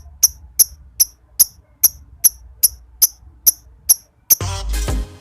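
A regular series of short, high-pitched chirping ticks, about two and a half a second, which stop about four seconds in; music with a beat starts right after.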